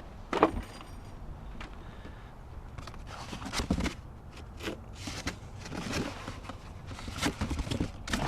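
A string of irregular scuffs and knocks about a second apart, the sharpest knock about half a second in.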